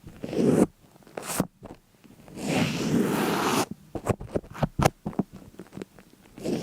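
Close-up scraping and rustling noises in short bursts, a longer one in the middle, followed by a quick run of sharp clicks.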